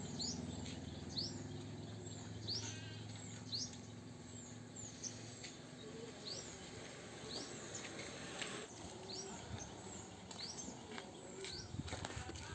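Small birds chirping repeatedly, short rising chirps about once a second, over quiet outdoor background noise. A low steady hum fades out about halfway.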